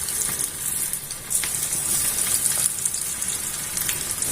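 Chicken pieces frying in hot oil: a steady sizzle with scattered crackles, growing louder about a second in.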